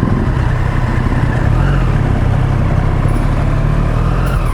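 Motorcycle engine running steadily under way as the bike moves off from a traffic signal, with a steady rush of road and wind noise.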